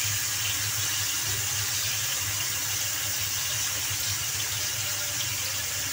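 Chicken pieces frying in hot oil in a steel kadai: a steady sizzle, with a low steady hum underneath.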